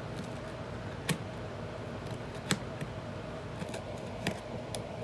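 A few sharp clicks and snips, three of them standing out, as the binding threads of an old book are cut through, over a steady faint hum.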